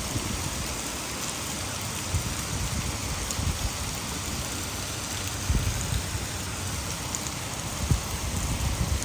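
Heavy rain falling steadily, an even hiss of rain on surfaces. It is mixed with the rush of water falling over a nearby dam. Irregular low bumps come through, the strongest about five and a half seconds in and near eight seconds.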